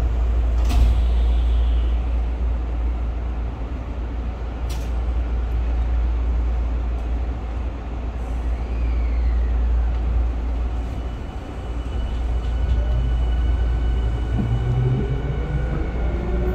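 Inside a Tokyu 5000 series electric commuter train: a steady low rumble with two short clicks early on, then near the end the traction motors' whine rising in pitch as the train accelerates.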